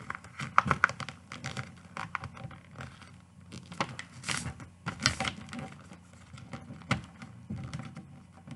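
A sheet of paper being folded and creased by hand: irregular rustles, crinkles and sharp scratchy creasing strokes.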